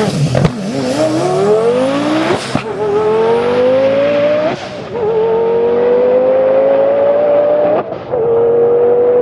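Twin-turbo Lamborghini Gallardo V10 drag car launching and accelerating hard down the strip. The engine pitch climbs steadily and drops at each upshift, three shifts at about 2.5, 4.5 and 8 seconds in, and the car sounds more distant as it pulls away.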